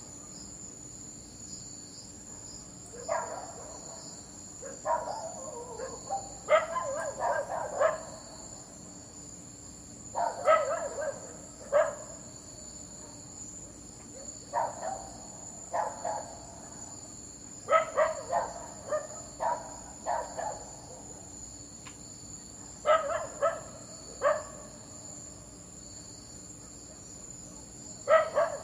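A dog barking in irregular bouts of several quick barks, with pauses of a few seconds between bouts. A steady high insect drone, like crickets, runs underneath.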